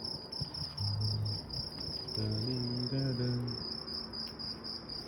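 Crickets chirping in a steady pulsing trill, with a low voice humming briefly twice, near the start and again in the middle.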